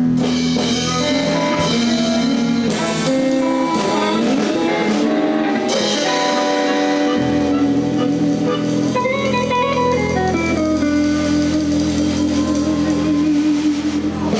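Live blues band playing guitar lines over drums and bass, with cymbal crashes in the first half. The song closes on a long held chord that stops right at the end.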